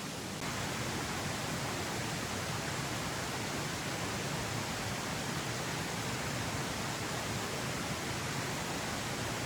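Steady rushing of flowing water, an even hiss with no distinct events, that gets slightly louder about half a second in.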